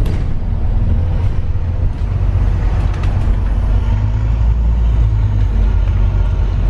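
Road vehicle running steadily, a continuous low rumble of engine and road noise.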